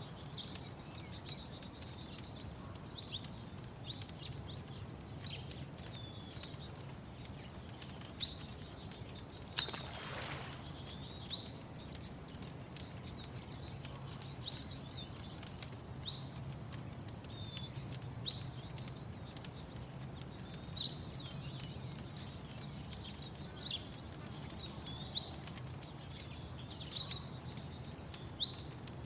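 Small birds chirping in short, high, scattered calls over a steady low background hum, with occasional sharp crackles from a wood fire. A brief whoosh comes about a third of the way in.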